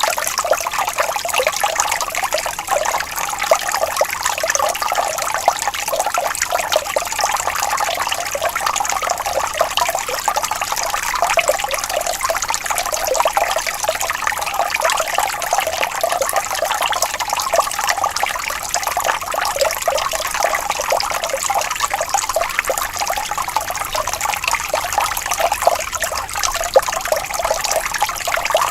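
Water flowing and trickling gently over stones, a steady babble with fine splashing.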